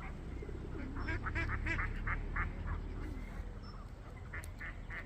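Waterfowl giving a rapid run of short honking calls, several a second, that pause and then start again near the end.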